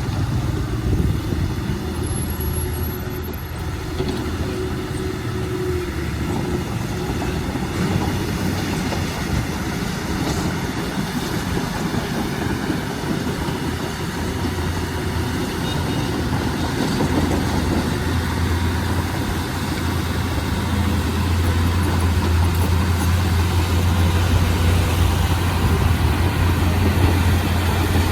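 Diesel engine of a Komatsu D31P crawler bulldozer running under work, a steady low drone that grows louder in the second half.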